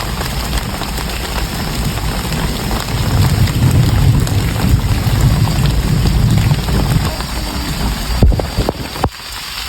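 Heavy rain falling steadily in a forest. A low rumble swells through the middle and fades, and a few sharp knocks come near the end.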